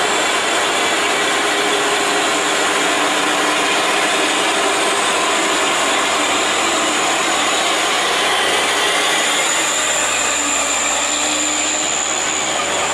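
Heavy truck engine running steadily under load, with a dense rush of mechanical and road noise. A thin, steady high-pitched tone sits above it throughout.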